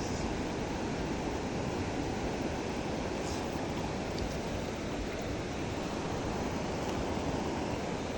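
Steady rush of flowing mountain river water, an even noise with no breaks.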